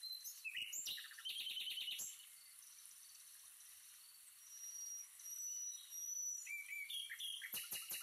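Small songbirds chirping: a quick cluster of chirps in the first two seconds, a thin high whistle midway, then a fast run of sharp repeated chirps starting near the end.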